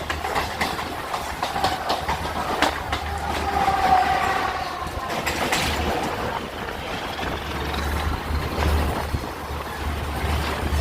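A train running on the track, its wheels clicking over the rail joints in a continuous rumble.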